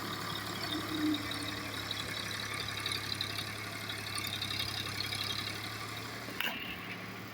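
Tractor engine running at a steady, even speed, with a short sharp click about six and a half seconds in.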